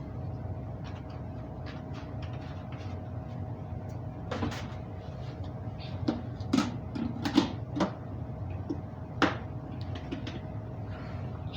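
A handful of sharp plastic knocks and clicks, several seconds apart, as parts of a Hoover SteamVac carpet cleaner are handled, over a steady low hum with a faint steady tone.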